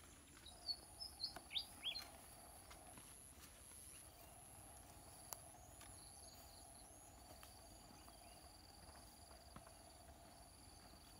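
Faint bird chirps, several in quick succession in the first two seconds, over a steady high-pitched background tone.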